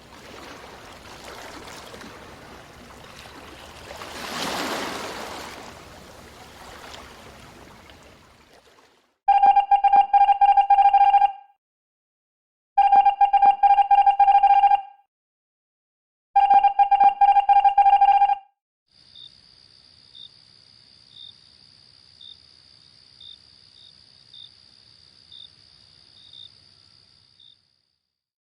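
A telephone ringer ringing three times, each ring about two seconds of a fast-trilling tone. Before it comes a swelling rush of noise, and after it a faint steady high tone with soft ticks about once a second.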